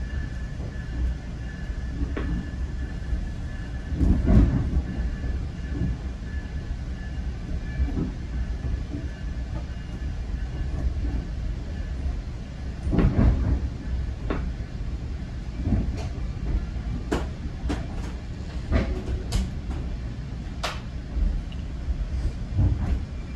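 Heard from inside a GO Transit commuter coach, the train is running with a steady low rumble. Scattered sharp clunks and clicks from the wheels and couplings come through, thickest in the second half. A faint steady whine in the first half fades out about halfway through.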